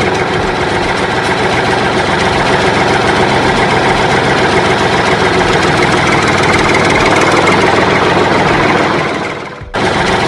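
An engine running steadily. It fades and cuts out about nine and a half seconds in, then starts again straight away.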